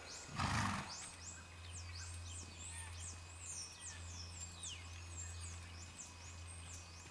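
Birds singing: many quick, high whistles that slide downward, repeated over and over and overlapping, above a steady low hum. A brief loud rush of noise comes about half a second in.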